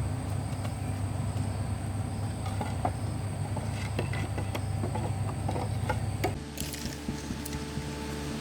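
A motor running steadily with a low drone, with scattered clicks and knocks over it. A little past six seconds in, the drone changes to a different, lower and thinner tone.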